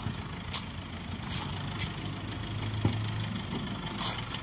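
A car engine idling with a low steady hum, with a few short sharp clicks over it.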